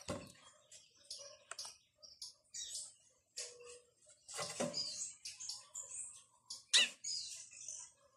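Small birds chirping: short, high calls coming quickly and irregularly, with a louder, sharp falling call near the end and a couple of soft knocks.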